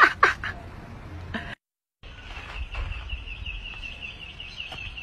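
A bird chirping rapidly and steadily, about five short high chirps a second, starting about two seconds in after a brief total silence; a laughing voice ends right at the start.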